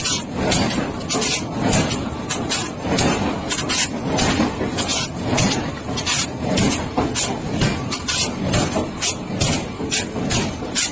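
Factory machinery noise: a constant mechanical din with short, sharp scraping or hissing strokes repeating irregularly, a few a second.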